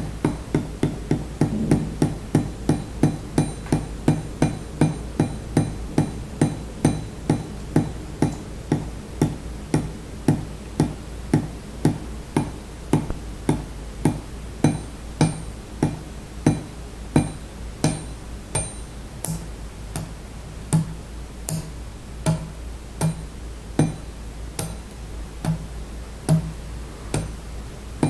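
Water dripping onto metal: single drops landing one after another, about one to two a second, each giving a short ringing ping. Under them runs a steady low hum.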